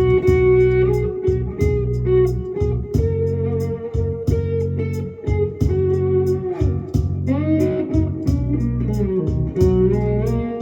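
Instrumental blues guitar break: a guitar melody with notes that slide between pitches, over held low bass notes and a steady beat.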